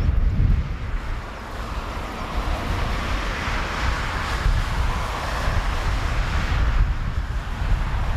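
Jet engine noise of a landing Boeing 787-9 airliner: a steady, loud rumble and rush, with wind buffeting the microphone.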